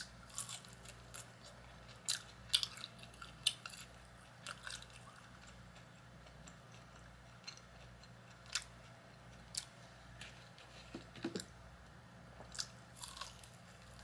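A person chewing and biting food close to the microphone: irregular wet mouth clicks and small crunches, busiest in the first few seconds and more spaced out later.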